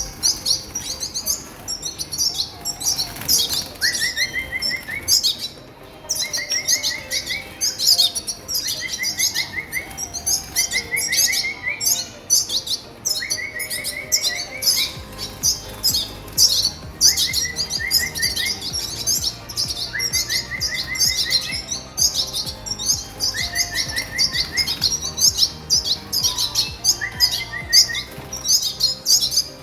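Red siskins chirping and twittering continuously in high, rapid calls, with short runs of clipped, evenly spaced notes repeated every second or two.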